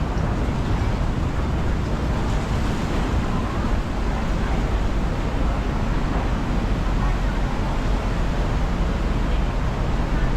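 Khlong Saen Saep canal passenger boat under way: a steady engine drone with rushing water and wind noise.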